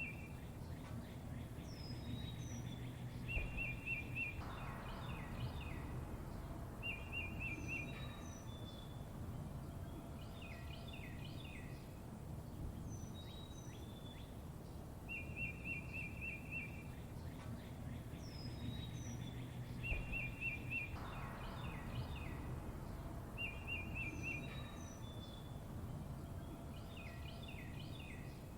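Several songbirds chirping: short rapid trills, quick downward-sweeping whistles and bursts of chirps, over a steady low background rumble. The same run of calls comes round again about every 15 seconds, as in a looped recording.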